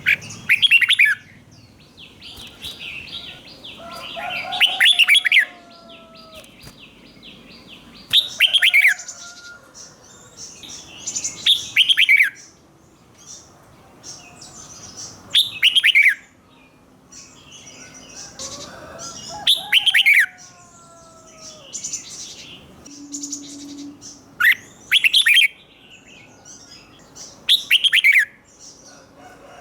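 Red-whiskered bulbul singing: short, loud whistled phrases of quick downward-sweeping notes, repeated about every three to four seconds, with fainter chirps between phrases.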